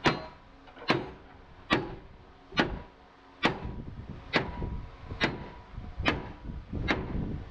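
A hammer striking steel in a steady rhythm, a little more than once a second, each blow leaving a short metallic ring. From about halfway, a low steady rumble rises beneath the blows.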